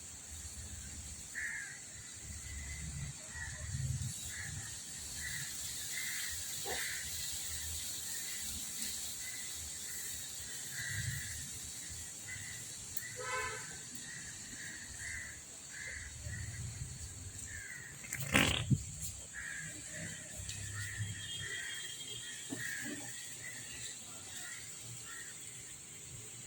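Outdoor ambience: a steady high drone, with short bird chirps scattered throughout and a crow calling about 13 seconds in. A brief, louder sudden sound comes about 18 seconds in.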